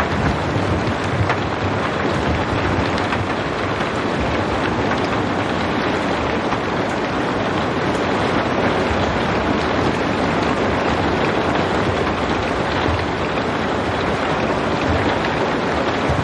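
Steady rain falling without thunder, an even hiss with faint scattered drop ticks.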